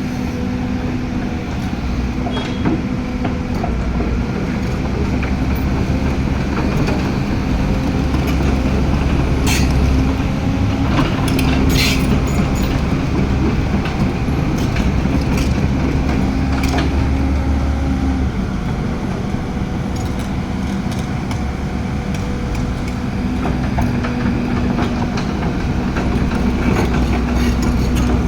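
Heavy diesel engine of a crawler excavator running steadily under load, with a few sharp metallic clanks near the middle.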